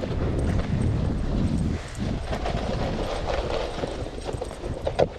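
Two huskies towing a snowboard over snow: the board sliding with a steady rush and the dogs' paws striking in many quick footfalls, with one sharper knock about five seconds in.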